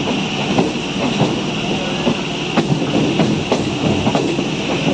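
Suburban EMU train running, with a steady rumble and its wheels clicking sharply and unevenly as they pass over points and crossings.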